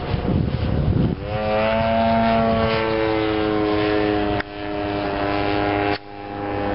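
Model aircraft engine turning its propeller on a giant-scale Extra 330L RC plane, settling into a steady run with its pitch creeping slightly up about a second in. The sound drops out suddenly twice and comes back.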